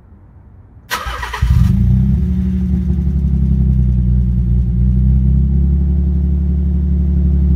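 Nissan 300ZX (Z32)'s 3.0-litre V6 starting: a short crank about a second in, then it catches and idles loudly with a misfire.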